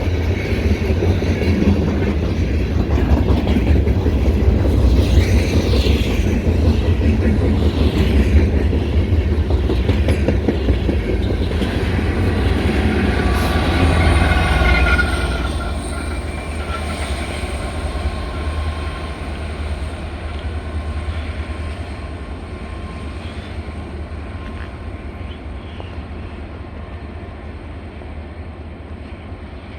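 Ore train cars rolling past, wheels clattering on the rails with a thin wheel squeal, loud for the first half, then dropping off about halfway through and fading steadily as the train moves away.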